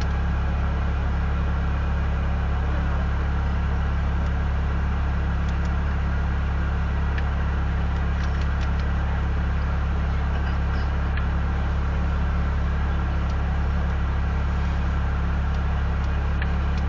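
An engine idling steadily: a constant low hum with even, unchanging tones and a few faint ticks on top.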